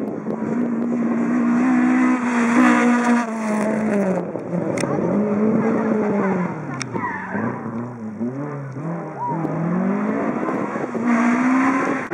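Rally car engine at high revs, easing off and revving again in several swells as the car works through corners, with tyre noise underneath. Two sharp cracks are heard around the middle.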